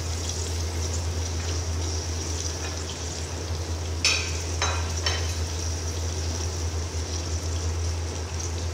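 Tomatoes, mint leaves and green chillies sizzling in hot oil in an aluminium pot: a steady frying hiss over a low steady hum, with three light clicks about four to five seconds in.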